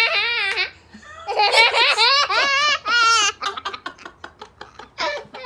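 A young child laughing hard in high-pitched, warbling peals: two long bursts, then a run of short breathy laughs, and one more peal near the end.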